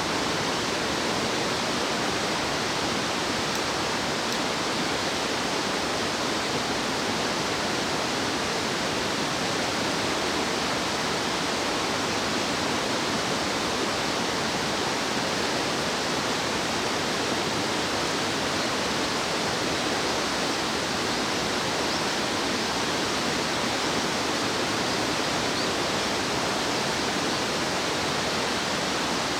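Fast-flowing stream water rushing over rocks, a steady, even wash of sound that does not change.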